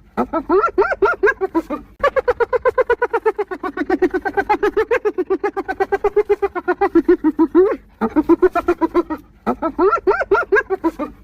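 Spotted hyena giggling (the 'laugh'): rapid strings of high, pitched yelping notes at about eight to ten a second. The calls come in four bouts with short breaks, the longest lasting about six seconds.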